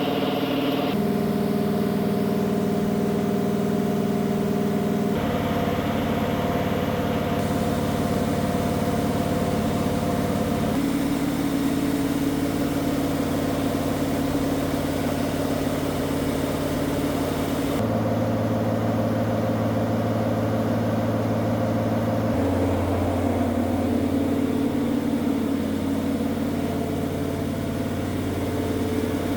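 Race car engine running on a dyno during break-in, holding steady speeds that jump abruptly to new pitches several times.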